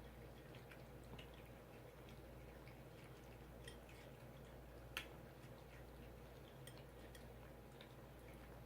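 Near silence: faint room tone with scattered small soft clicks and one sharper click about five seconds in.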